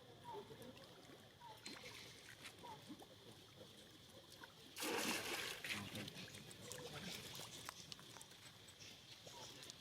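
Water splashing: a sudden loud splash about halfway through, lasting about a second, then quieter sloshing.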